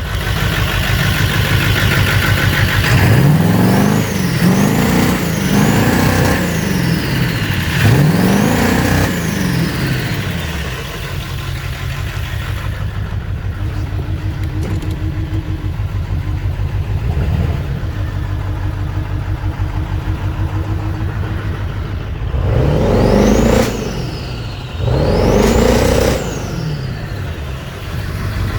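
Ford 7.3L Power Stroke V8 turbodiesel with a misfire, idling and revved in quick blips, with a high turbo whine rising and falling on each rev. Several revs come early, then a steady idle, then two more revs near the end.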